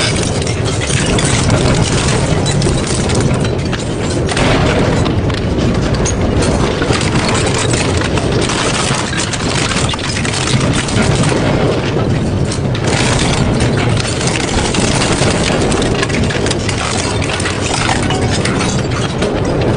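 Double-shaft metal shredder grinding and tearing scrap metal: a steady low rumble packed with dense cracks and crunches as the metal breaks apart.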